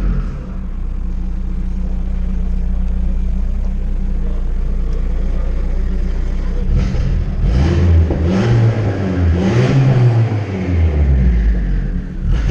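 Turbocharged Honda Civic Si engine, built to over 500 hp, idling steadily, then revved up and let fall several times in a row from about seven seconds in.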